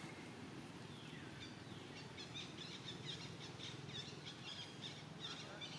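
Faint, rapid high chirping of small birds, several chirps a second, setting in about a second and a half in, over a steady low background rumble.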